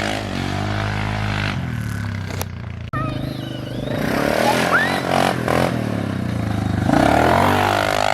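An engine running and revving, its pitch rising and falling, with a sudden break about three seconds in and a brief rising squeal about five seconds in.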